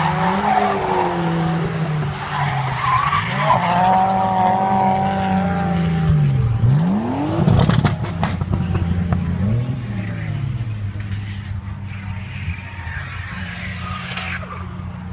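Drift car engines revving and running at low revs, their pitch rising and falling several times. About seven and a half seconds in comes the loudest moment, a short burst of sharp cracks, after which the engine sound slowly fades.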